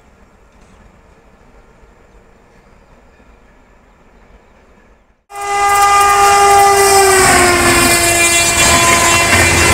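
Faint steady background noise for about five seconds, then an abrupt cut to a passing express train: a locomotive horn sounds loudly and continuously, its pitch dropping about two seconds in as the engine goes by. Under the horn is the loud rushing and clatter of passenger coaches running past at speed.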